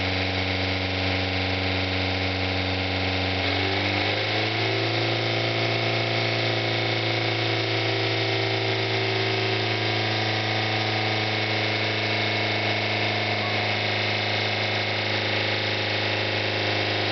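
Old Ford Orion's engine screaming at sustained high revs with its coolant drained, overheating and steaming heavily as it is run to destruction. Its pitch steps up about four seconds in, then holds steady.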